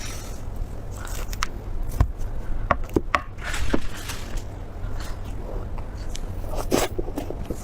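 Close-miked eating sounds: biting, chewing and wet mouth clicks, with occasional scrapes, in short irregular smacks.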